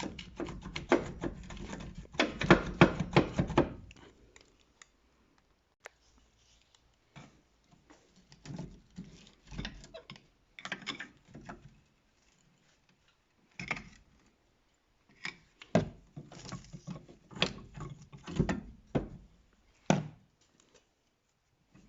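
Metal car brake parts clinking and knocking as they are worked loose and pulled off during brake disassembly. A dense run of rattling knocks comes in the first few seconds, then scattered clicks and clatters with short pauses.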